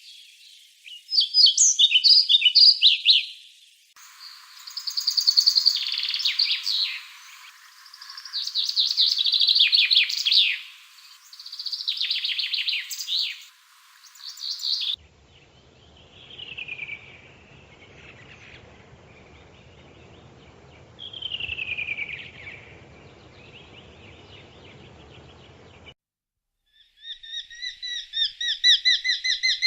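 Wild songbirds singing in a string of spliced recordings. First come loud trilling song phrases repeated every few seconds. Then two slow falling whistled notes over a faint low hum, and after a brief silence near the end, a fast run of repeated chattering notes.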